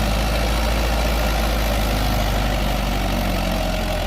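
Mahindra 585 XP Plus tractor's four-cylinder diesel engine running steadily and hard under load in top-low gear as the tractor bogs down in soft soil.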